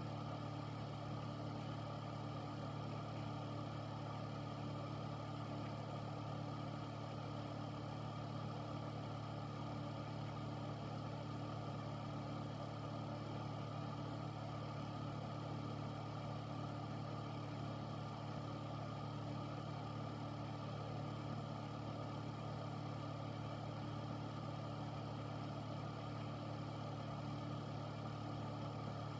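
Air filter running steadily: a constant low hum with a whooshing of moving air, unchanging throughout.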